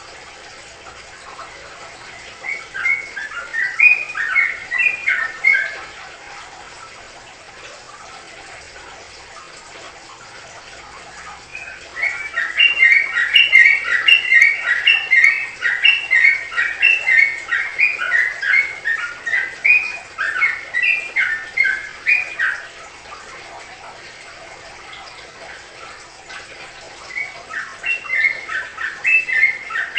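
A songbird singing in three bouts of quick, chirping notes: a short phrase a few seconds in, a long run of about ten seconds near the middle, and another starting near the end, over a steady faint hiss.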